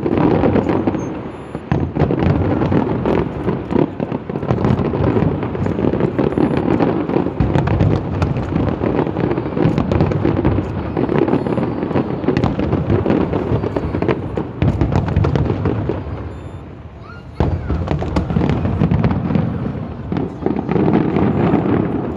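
Fireworks display: a dense, unbroken barrage of bangs and crackling that eases briefly about two-thirds through, then builds again.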